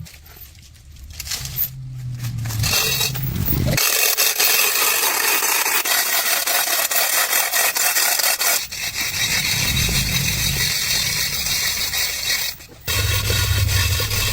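Continuous rasping, scraping workshop noise, like abrasive tool work on a surface, in edited stretches. A low hum comes before it and returns near the end.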